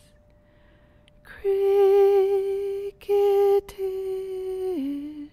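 A woman's voice humming or singing long held notes in a slow, lullaby-like melody, with short breaks between them. The last note slides down in pitch near the end.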